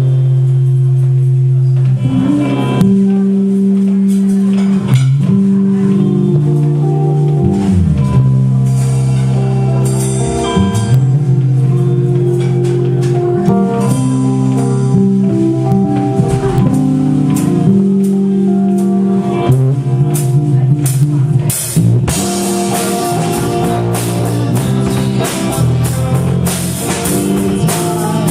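Live rock band playing a funk-rock cover: strong, moving low notes carry the tune over drums and guitar. The drums and cymbals get busier and fuller about two-thirds of the way through.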